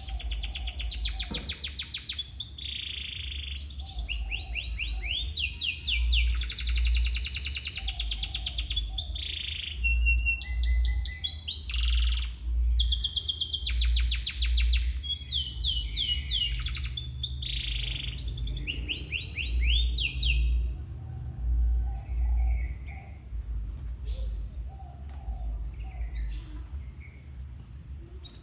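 Domestic canary singing: long rolling trills and fast runs of repeated high notes, dense through most of the stretch and breaking up into scattered short chirps in the last few seconds. A steady low hum runs underneath.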